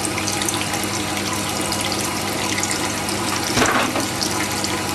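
Jet water-cooled sharpening machine running slowly: a steady low motor hum under a continuous wash of water as the whetstone turns through its water reservoir, with one short knock about three and a half seconds in.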